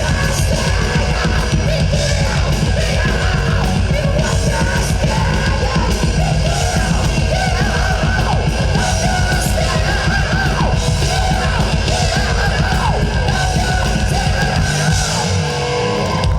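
A rock band playing heavy metal live, with a singing voice over dense drums and bass. The music is loud and stops right at the end.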